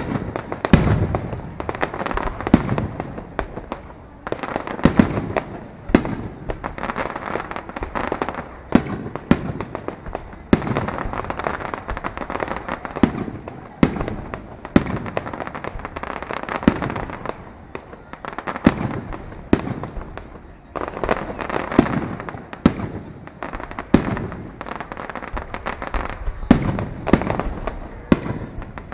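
Aerial fireworks display: shells bursting in quick, irregular succession, with sharp bangs about one or two a second and crackling between them.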